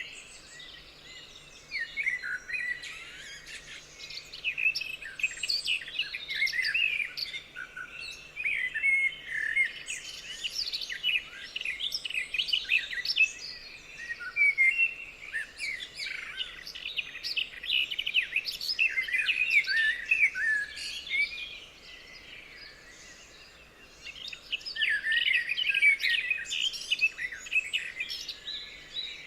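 Several songbirds chirping and singing at once in a dense, continuous chorus of short high calls and trills, thinning briefly about two-thirds of the way through.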